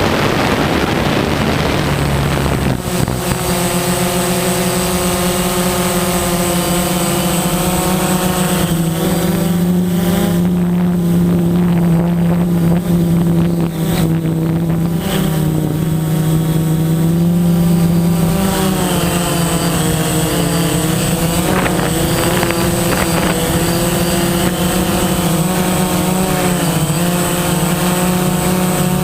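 DJI Phantom quadcopter's four motors and 9-inch propellers whirring steadily in flight. The pitch rises and falls as the throttle changes, with several bends in the second half.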